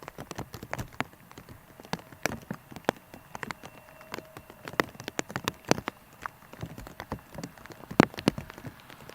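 Typhoon rain: large drops tapping irregularly on a nearby surface, each drop a distinct tap, with one loud tap about eight seconds in.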